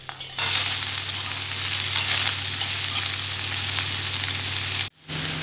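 Chopped cabbage, radish and potato sizzling in hot mustard oil in a kadai as they are stirred, a steady frying hiss that swells about half a second in and drops out for an instant near the end.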